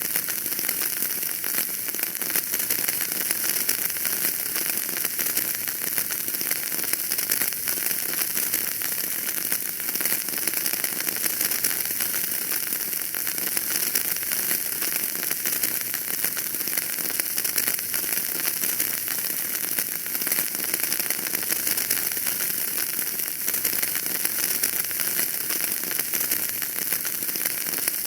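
Wood fire burning in a fireplace, a steady hiss dense with small crackles and pops.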